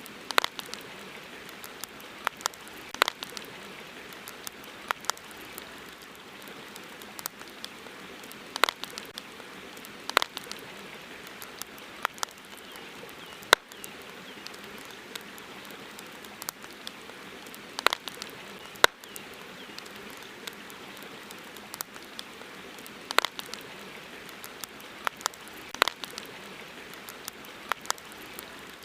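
Wood campfire crackling: irregular sharp pops, sometimes several close together, over a steady hiss.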